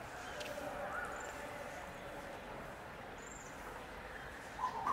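Bird calls over steady outdoor background: a faint short call about a second in, a faint high chirp around three seconds, and a louder call near the end.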